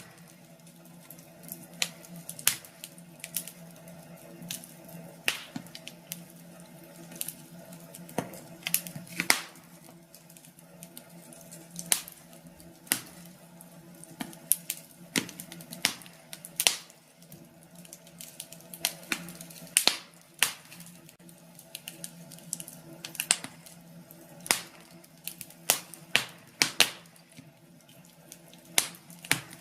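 Wood fire in a fireplace crackling, with irregular sharp pops and snaps over a low steady hum.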